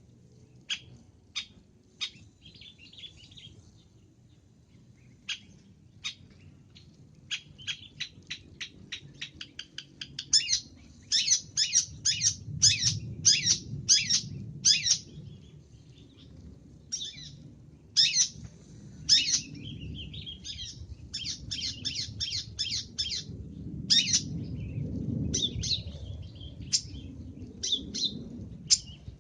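Long-tailed shrike (cendet) singing a varied song of short, sharp notes. The notes are scattered at first and come in quick runs from about a third of the way in. A low background rumble runs under the song.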